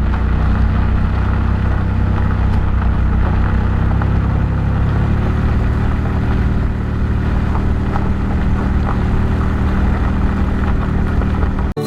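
Car engine running with road noise while driving, the engine note shifting slightly higher about five seconds in; cuts off suddenly near the end.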